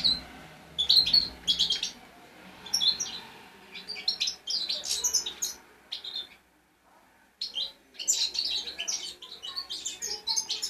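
Young European goldfinch singing in quick twittering, chirping phrases, with a short break about six seconds in before the song picks up again.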